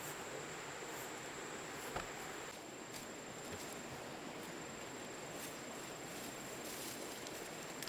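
An insect calling with a steady, thin high-pitched tone over faint rainforest ambience, with a soft click about two seconds in.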